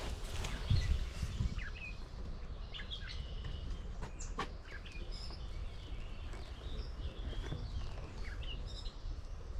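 Several wild birds chirping and singing in short, overlapping notes, over a steady low rumble with a few thumps about a second in.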